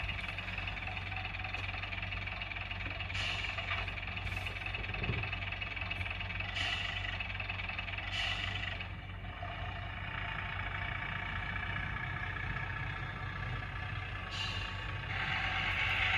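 Diesel multiple unit engine sound of a Class 101 played by a model's DCC sound decoder through its small speaker, running steadily as the model sets off. Several short air hisses come through, and the sound grows louder near the end.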